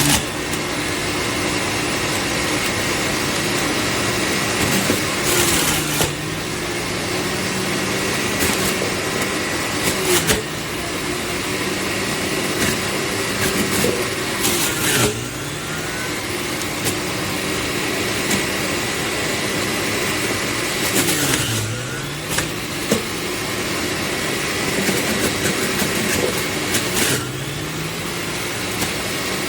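Electric juicer motor running steadily with a hum and a high whine. Its pitch dips briefly about every five to six seconds and then recovers, with short clicks or knocks at the dips.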